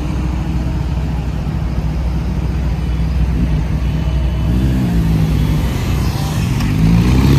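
Motorcycle engines idling with a deep steady note, then revved up and down from about halfway through, the pitch climbing and the sound getting louder near the end.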